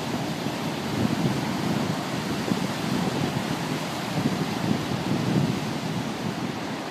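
Steady rush of storm-driven surf on Lake Michigan with strong wind buffeting the microphone.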